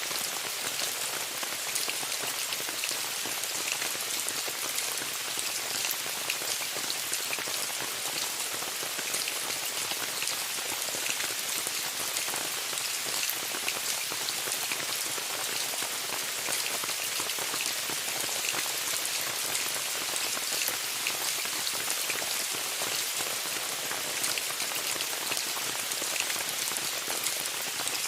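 Steady rain falling on a tent, with a continuous hiss and many small, distinct drop taps.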